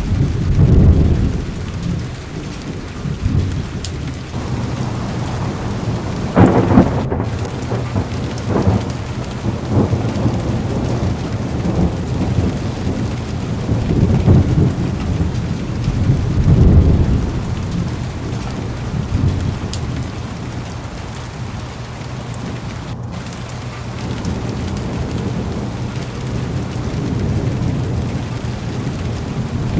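Heavy rain pelting a car's windows and roof, with low rolls of thunder swelling and fading several times, the loudest about six seconds in.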